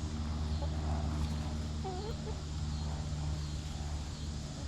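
A steady low engine drone, fading near the end, with a couple of soft hen clucks about two seconds in.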